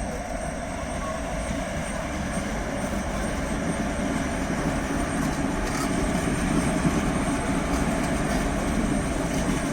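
Electric-hauled passenger express train rolling slowly along the platform line, a steady rail rumble that grows a little louder partway through, with a thin, steady high-pitched whine over it.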